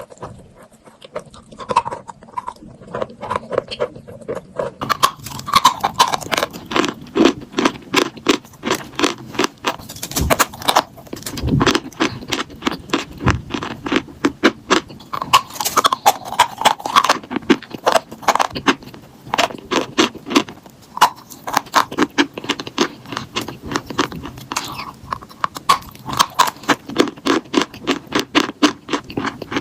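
Close-up crunching and chewing of eaten chalk: a rapid run of sharp, crisp crunches, sparse for the first few seconds and then many a second from about five seconds in.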